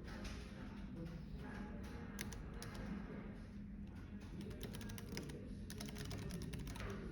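Typing on a computer keyboard: a short run of key clicks about two seconds in, then a longer, faster run of keystrokes in the second half.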